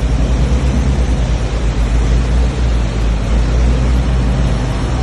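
Steady low rumble of a boat under way, with rushing wind on the microphone.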